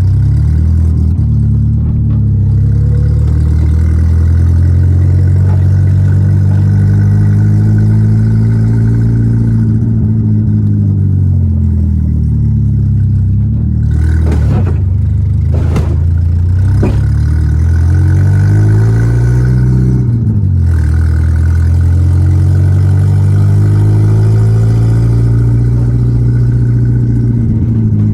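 Volkswagen Gol G4 Rallye's four-cylinder engine under way, its pitch rising and falling with acceleration and gear changes, with stretches of steady cruising. About halfway through, the revs drop and sweep up and down through a quick shift.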